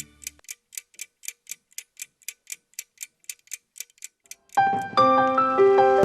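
Clock ticking, about four ticks a second. Piano music comes in about four and a half seconds in.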